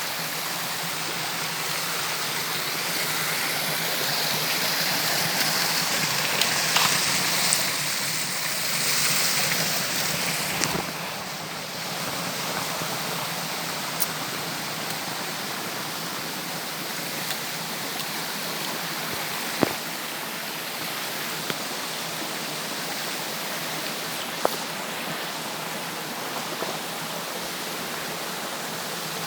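Rushing river water, a steady noise that swells louder for a few seconds in the first half and drops back about eleven seconds in, with a few sharp clicks.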